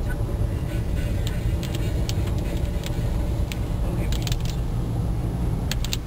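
Steady low rumble of a car heard from inside the cabin, with scattered light ticks that fit raindrops striking the windscreen, in small clusters.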